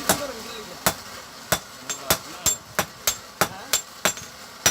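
Hand hammer blows on metal at a blacksmith's anvil: about a dozen sharp strikes at an uneven pace of two to three a second, several leaving a brief high ring.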